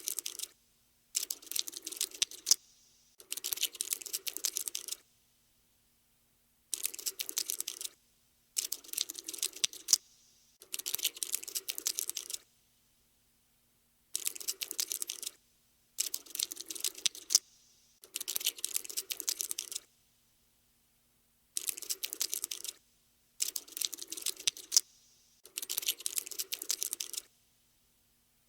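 Looped cockroach scuttling sound effect: rapid dry clicky scratching in bursts of a second or two, three bursts in a row with short silent gaps, the set repeating about every seven seconds.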